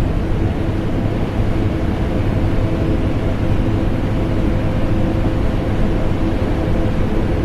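Vacuum cleaner motor running steadily, mixed with the hum of an air conditioner: an unbroken deep drone, heaviest in the bass, with faint steady tones under it.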